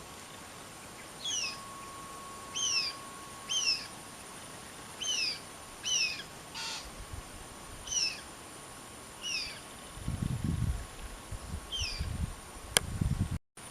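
Red-breasted parakeets (betet) calling: eight short, harsh, downward-sliding calls at irregular intervals. Near the end come low rumbling knocks from handling or wind on the microphone and one sharp click.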